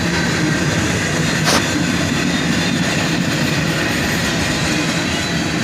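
Freight train cars rolling past on the rails: steady wheel and rail noise, with a single sharp knock about a second and a half in.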